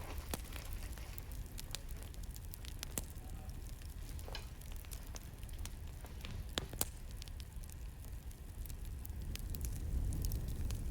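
Campfire crackling: scattered sharp pops and snaps of burning wood over a steady low rumble of the flames.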